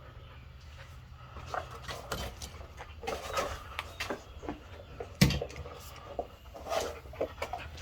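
Scattered clinks and knocks of tools and metal engine parts being handled, with one louder knock about five seconds in.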